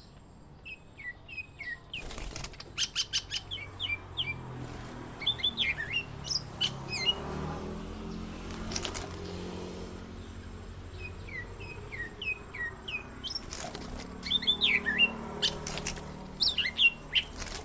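A cucak hijau (green leafbird) calling in quick runs of short, falling chirps, the runs coming in bursts with pauses between, and a few sharp clicks among them.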